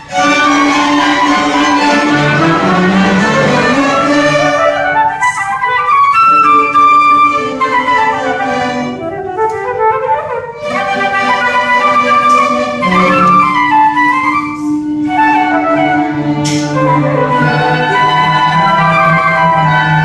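A school orchestra playing a classical piece, with strings and woodwinds carrying a moving melody. The full ensemble comes in at the start after a brief drop.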